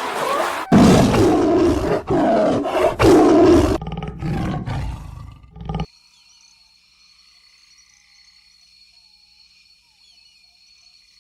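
A large wild animal roaring: three or four loud, rough, growling roars over about six seconds. They stop abruptly and give way to faint steady high tones with small chirps.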